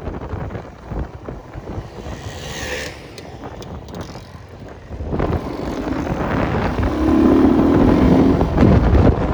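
Enduro motorcycle engine being ridden, with wind buffeting on the microphone. About five seconds in the engine gets louder, and it revs hard under load near the end.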